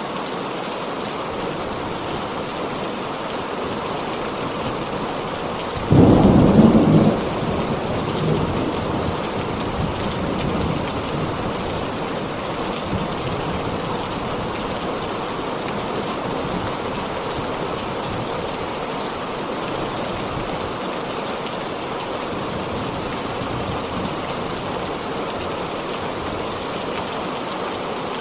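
Heavy rain falling steadily. About six seconds in, a sharp clap of thunder breaks out and rumbles away over the next few seconds.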